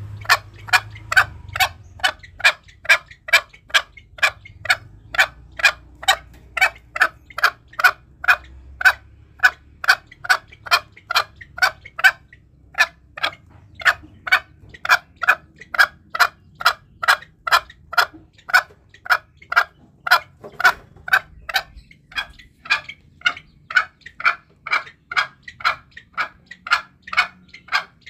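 Green junglefowl calling: a steady run of short, sharp clucking notes, about two a second, used as a hunting lure call.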